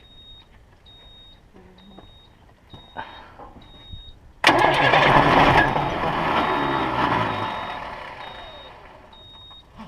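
Diesel engine of an International water truck being cranked by its starter for about five seconds without catching, after air was bled from its fuel system. The cranking starts suddenly about halfway through and fades toward the end. Before it, a dashboard warning beeper chirps in a steady repeating pattern.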